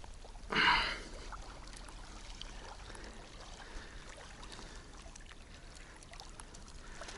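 A short splash of water about half a second in, then faint steady trickling and lapping water.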